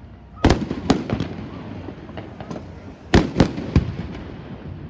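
Aerial fireworks bursting: a cluster of sharp bangs about half a second in and another about three seconds in, with smaller crackling pops between them.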